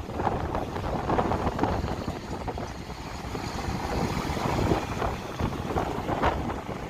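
Vehicles rumbling past in a convoy, with wind buffeting the microphone.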